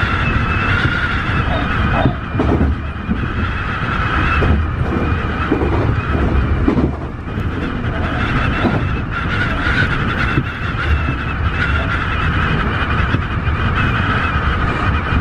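Tobu 50090-series electric train running: a continuous low rumble of wheels on the track with a steady high-pitched whine on top.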